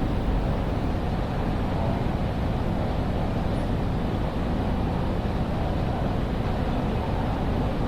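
Steady low rumbling ambience of a large railway station building, an even wash of noise with no distinct events.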